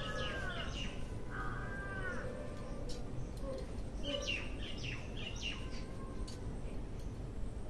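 Birds calling: two drawn-out, arching calls near the start, then a quick run of short chirps about four seconds in, over a steady low background noise.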